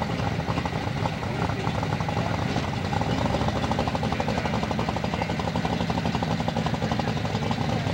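Hot rod coupe's engine idling, a steady rapid pulsing beat with a low hum.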